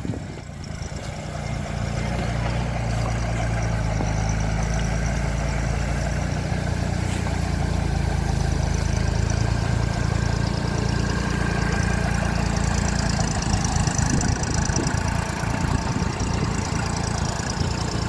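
Mini backhoe loader's engine running steadily, building up over the first couple of seconds and then holding.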